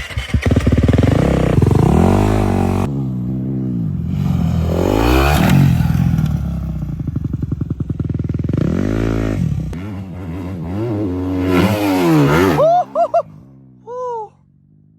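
Dirt bike engine revving hard, its pitch climbing and falling again and again as the throttle is opened and rolled off, stopping about 13 seconds in.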